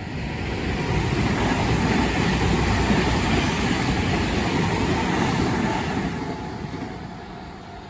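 A train passing over a level crossing, a rushing rail noise that swells, peaks about three seconds in and fades away. The crossing's warning bell rings steadily under it.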